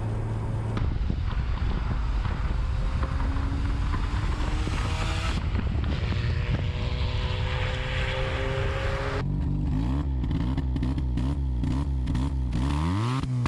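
Mazda RX-7's rotary engine running under load, its pitch climbing slowly as it pulls, then revved up and down again and again in the last few seconds.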